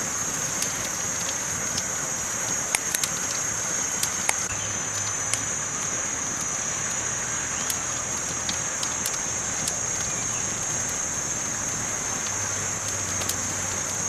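Campfire burning: a steady rush of noise with scattered sharp crackles and pops, over a constant high-pitched hiss.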